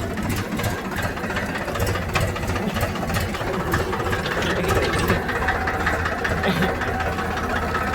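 Farmtrac tractor's diesel engine running steadily as the tractor is driven, with a fast, even engine beat.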